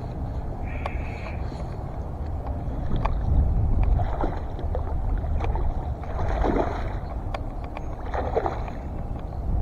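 Wind buffeting the microphone in a steady low rumble, with water splashing in surges every couple of seconds and a few sharp clicks.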